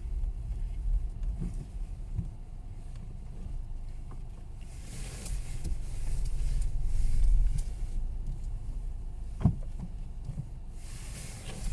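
Car driving: a steady low rumble of engine and road noise, with a short sharp knock about nine and a half seconds in.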